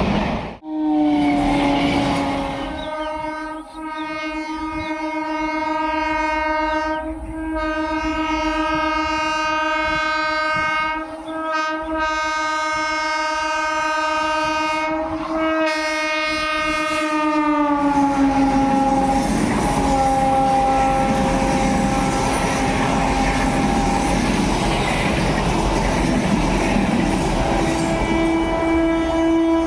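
Indian local train's horn held almost without a break for over twenty seconds, its pitch falling partway through as the train passes, over the rumble and clickety-clack of the passing coaches; the horn sounds again near the end.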